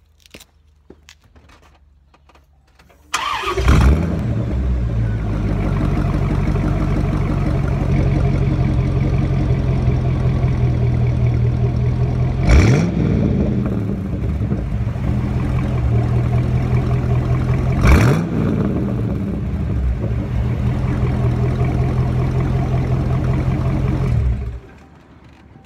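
1996 Corvette C4's LT1 V8 with its mufflers removed: it is started about three seconds in, flares up and settles into a loud, steady idle. It is blipped twice, each a short rise and fall in revs, then shuts off near the end.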